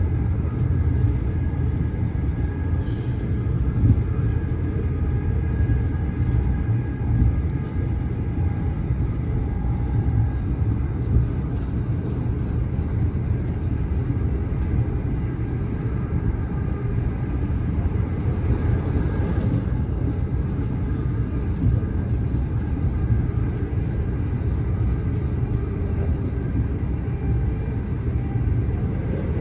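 c2c electric passenger train running at speed, heard from inside the carriage. The low, steady rumble of wheels on rail has a faint steady whine over it and a few light knocks.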